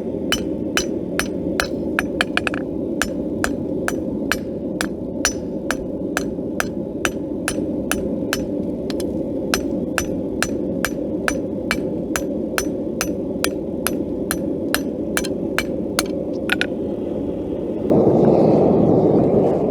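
Hammer striking hot steel on an anvil in a quick, even rhythm of about two to three ringing blows a second, putting vein texture into a forged leaf, over a steady low rushing. The blows stop about three seconds before the end, and a louder rush of noise comes in near the end.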